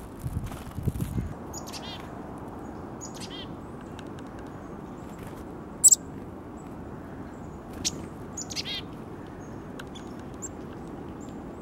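Wild songbirds calling in short bursts of quick, high, falling notes, three times over. There are a few low thumps in the first second and one sharp click about six seconds in.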